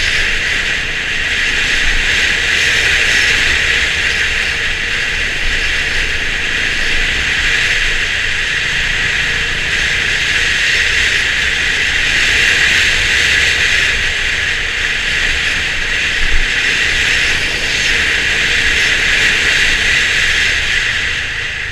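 Steady rushing wind and road noise of a Honda CB350 RS motorcycle on the move, with a low rumble underneath, as picked up by a GoPro mounted on the moving bike.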